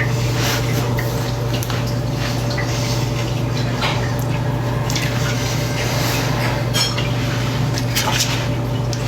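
Kitchen handling sounds: a few light clicks and knocks of dishes or utensils over a steady low hum.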